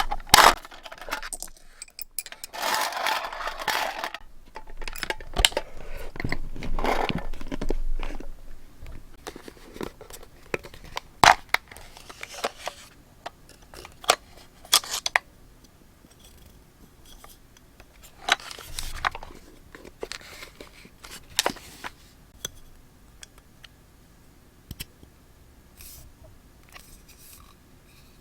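Paper and stationery being handled for journal decorating: rustling and tearing-like paper noise in the first several seconds, then scattered light clicks and taps that grow sparser and quieter toward the end.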